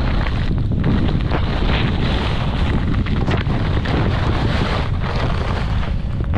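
Wind buffeting the microphone in a loud, steady rush with constant flutter, typical of a camera moving fast through the air on a ski run.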